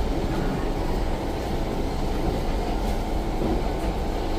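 Steady running noise inside the carriage of a Siemens C651 metro train in motion: a continuous rumble of wheels on the rails.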